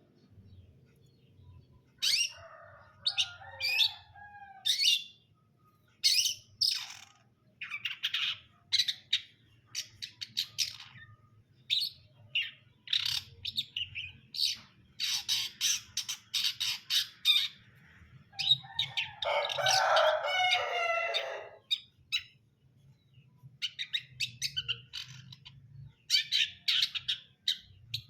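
Long-tailed shrike (cendet) singing: runs of short, sharp chirps in bursts with brief pauses, and a denser, fuller phrase about two-thirds of the way through that is the loudest part.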